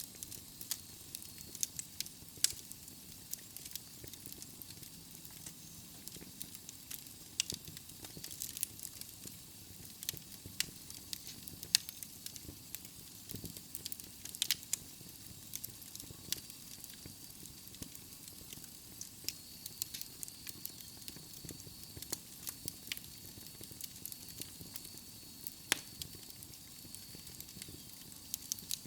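Wood fire burning in a fireplace: logs crackling with frequent sharp pops over a steady low rush of flame. A faint high whistle joins about two-thirds of the way in.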